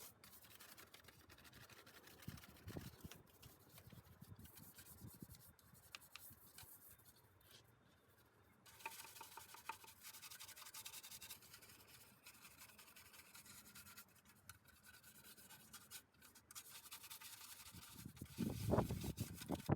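Faint scrubbing of a stiff-bristled wheel brush over engine-bay parts coated in wheel cleaner, loosening dirt in short strokes that grow louder near the end.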